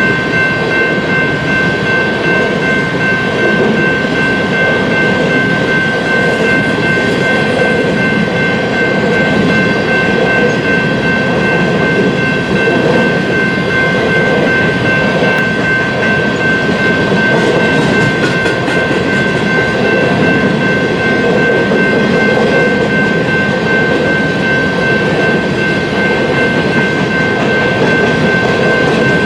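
Coal train's hopper cars rolling past on the rails: a steady, loud rumble and clatter with a constant high-pitched ringing tone over it.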